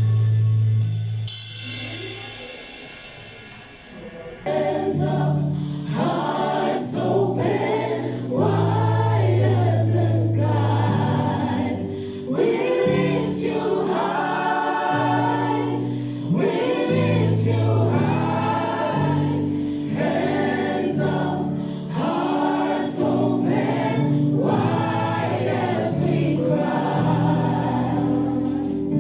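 Gospel choir singing with a band playing steady bass notes beneath, after a held note and a brief lull at the start.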